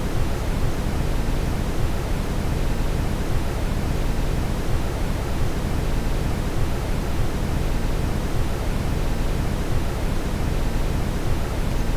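Steady brown noise: a deep, even rush, strongest in the bass and fading toward the treble, with no change or break.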